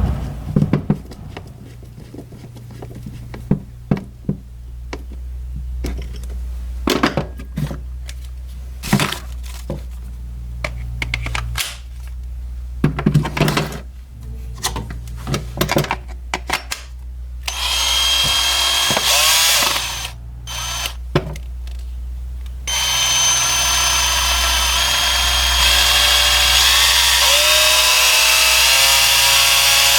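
Clicks and knocks of a Parkside cordless drill being handled, then its motor starts in short spurts and, from about two-thirds of the way in, runs steadily with its pitch climbing. This is the drill run on its freshly repaired variable-speed trigger.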